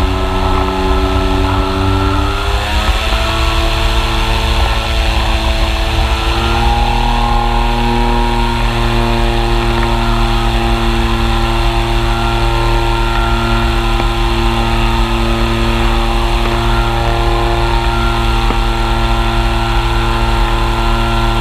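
Polaris FIB flying inflatable boat's engine and propeller running steadily at high power. The pitch rises about two and a half seconds in, then holds.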